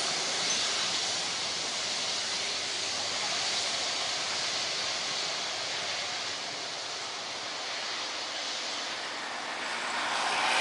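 Steady rushing jet noise from an airliner's engines, easing slightly and swelling again near the end.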